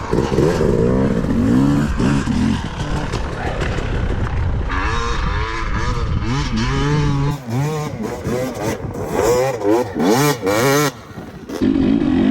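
Dirt bike engines revving, the pitch climbing and dropping again and again as the throttle is worked. There is a run of quick rev swings in the second half.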